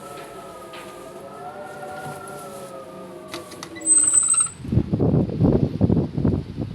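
Outdoor tornado warning siren wailing, its pitch wavering slowly up and down. About four seconds in there is a brief high-pitched squeal, then loud gusts of wind on the microphone drown the siren out.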